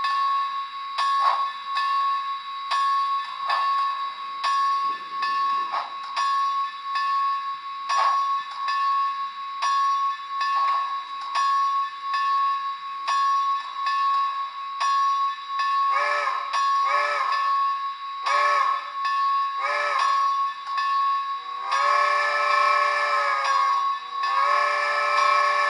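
HO-scale Maine Central Baldwin 2-8-0 steam locomotive model's sound system: steady steam chuffing, then from about two-thirds of the way in, four short whistle toots followed by two long chime-whistle blasts.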